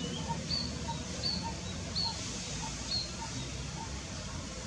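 Two birds calling in steady repeated series: a short low note about every 0.6 seconds and a short high, slightly falling note about every 0.75 seconds. Underneath runs a steady low rumble.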